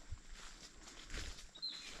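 Footsteps on the forest floor, about two steps, with a short high bird chirp near the end.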